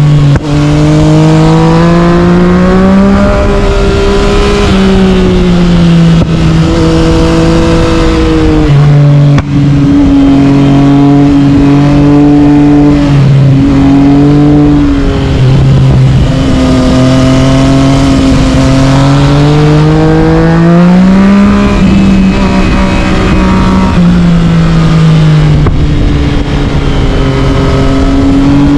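Yamaha MT-09 three-cylinder engine through an Akrapovic carbon exhaust, ridden hard. The loud engine note rises and falls again and again with the throttle, with a few sudden steps in pitch.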